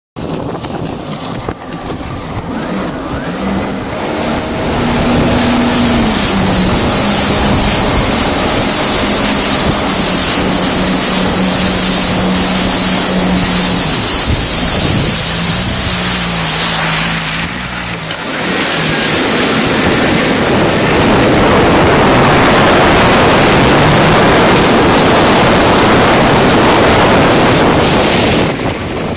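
Jet ski engine running under way, its pitch rising and falling with the throttle, over rushing water and heavy wind on the microphone. The wind and water noise grow louder about two-thirds of the way through.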